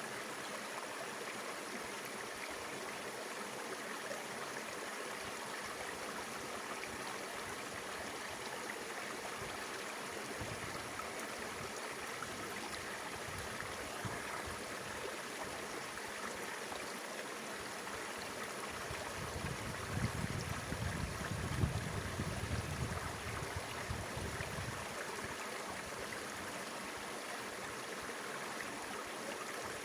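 Mountain river water flowing steadily. About twenty seconds in, a low rumble rises under the water for a few seconds.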